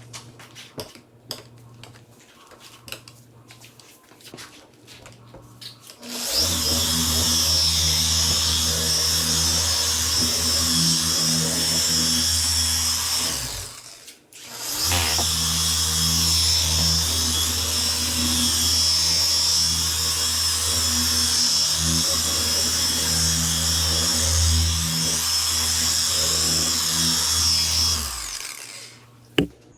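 A handheld electric power tool running steadily at constant speed with a high whine over a low hum. It stops briefly about halfway through, starts again, and cuts off near the end.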